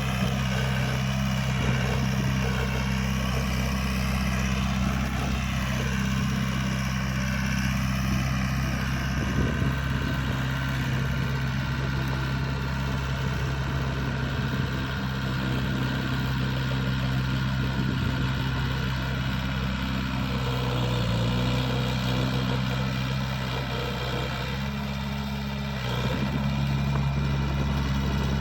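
Komatsu bulldozer's 4D92 four-cylinder diesel engine running steadily. Its note drops slightly about twenty seconds in and picks up again near the end.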